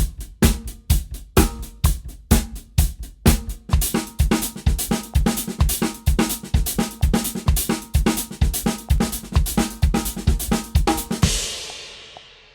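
Drum kit playing a sixteenth-note paradiddle groove across snare, bass drum and cymbals. It stops about eleven seconds in on a final hit whose cymbal rings out and fades.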